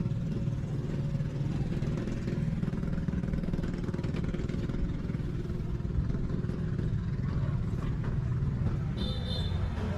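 Motorcycle engine running steadily under way. A brief high tone sounds about nine seconds in.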